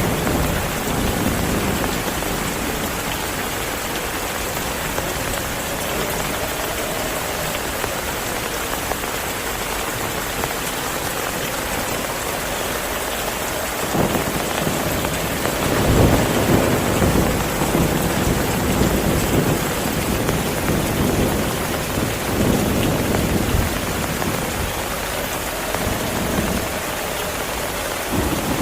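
Heavy rain falling steadily, with low rolling thunder rumbling in from about halfway through.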